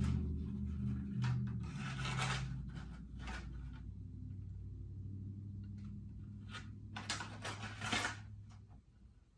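Pieces of metal rod and tubing clattering and scraping as they are rummaged through and handled, a few separate clanks and rubs over a steady low hum that stops near the end.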